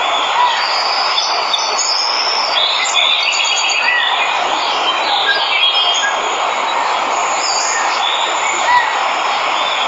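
Steady rushing of a waterfall, with many birds chirping and trilling over it in a jungle chorus.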